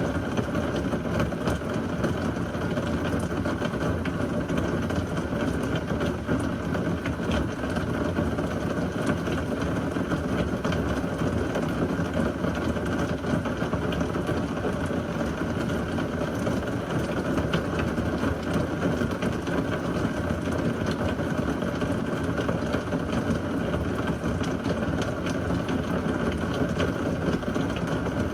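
Heavy rain falling steadily during a severe thunderstorm, a constant rushing hiss with many fine drop ticks and no thunderclap.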